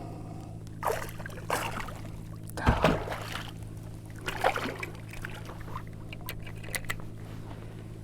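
Water splashing and trickling in several short, irregular bursts as a small flounder is brought to a kayak, over a steady low hum.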